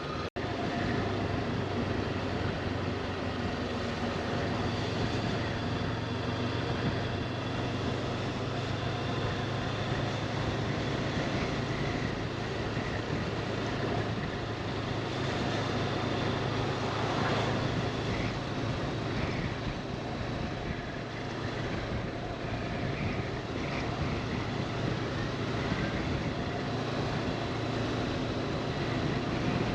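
Motorcycle engine running at a steady cruising speed, with wind and road noise over the rider's microphone.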